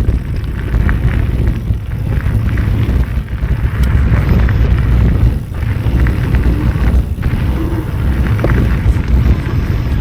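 Wind rumbling on the microphone of a mountain biker's camera, with scattered clicks and rattles from the bike rolling over a rough dirt trail.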